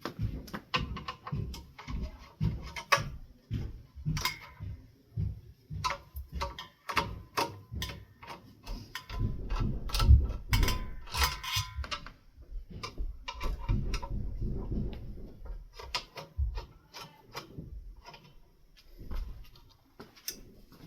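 Hands and a screwdriver working on ceiling fan parts: irregular clicks, taps and knocks of metal and small parts being handled, with a heavier stretch of thuds and rustling about halfway through.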